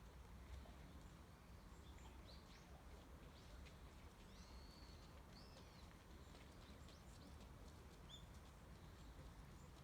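Faint scattered chirps and short whistled notes of small birds, one note held for about half a second near the middle, over a low steady outdoor rumble.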